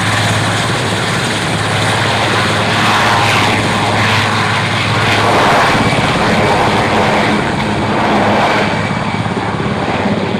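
Aircraft engine running steadily with a low droning hum, swelling a little in the middle.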